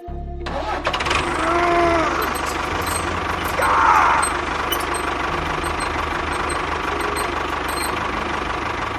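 A small motor-driven machine running steadily with a rattling, knocking mechanical noise, with a brief rising-and-falling whistle-like tone about two seconds in and a short falling glide about four seconds in.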